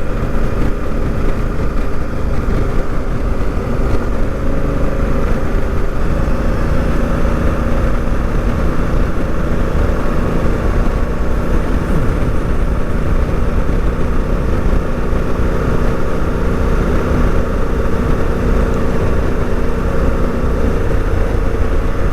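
Honda Africa Twin CRF1000L's parallel-twin engine running at a steady cruise under way, heard from the bike, with wind rumble on the microphone.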